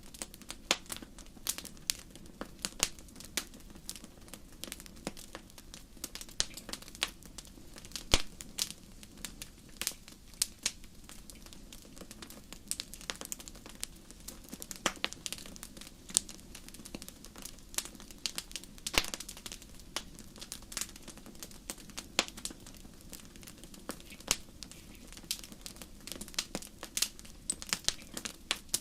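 Wood fire in a fireplace crackling, with irregular sharp pops several times a second over a low steady hiss; the loudest pops come about 8, 15 and 19 seconds in.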